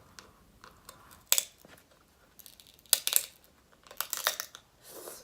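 Seafood shells, snow crab or shrimp, cracking and crackling as they are broken open, in three short clusters of sharp snaps, with a brief hiss near the end.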